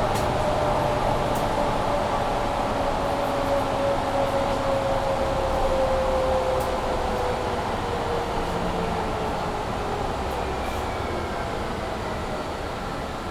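Mercedes-Benz Citaro C2 G articulated bus heard from inside while it slows: a drivetrain whine slowly falls in pitch and the running noise eases off. Under it runs the steady rushing of the bus's heating fan.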